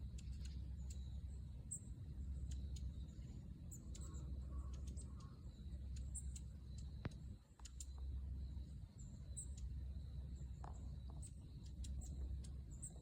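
A flock of long-tailed tits calling near the microphone: many short, thin, high-pitched 'chi-chi' calls scattered throughout, over a steady low rumble.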